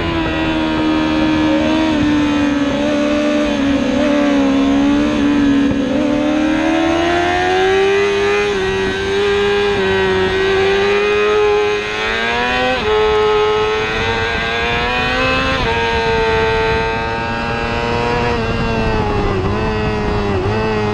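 Racing superbike engine running hard at high revs. Its pitch sags, climbs steadily and jumps sharply about two-thirds of the way through as the rider works through the gears.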